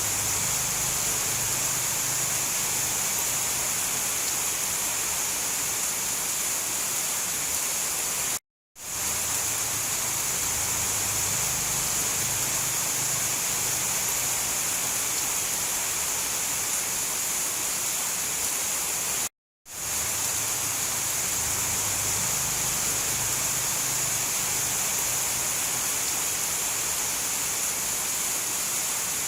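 Steady, dense rain noise with no thunder. It drops out to silence for a moment twice, about 8 and 19 seconds in, fading quickly back in each time: the seams of a looped recording.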